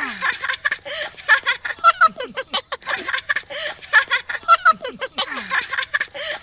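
Children's voices giggling and laughing in short high bursts, as in a game of tag.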